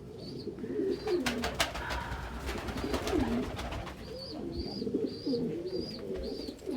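Domestic pigeon cooing over and over, the courtship coo of a male treating a human foot as a mate. Under it a faint high chirp repeats about twice a second, and a few sharp clicks come about a second in.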